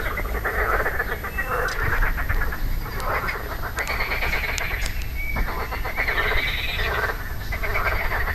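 Frogs croaking in a chorus of rattling, rapidly pulsed calls, each about a second long, several overlapping one another; the uploader tentatively takes them for marsh frogs.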